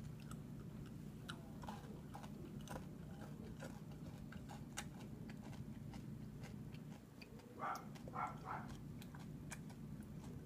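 Close-up chewing of M&M's candies: faint crunches and small irregular clicks as the candy shells are bitten, over a steady low hum.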